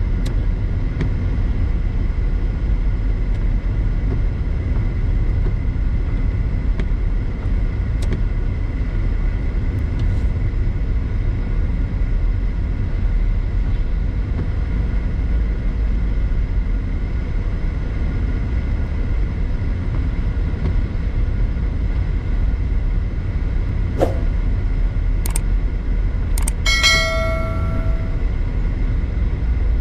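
Steady road and engine noise of a car driving, a low rumble. Near the end come a few sharp clicks and a short pitched tone lasting about a second.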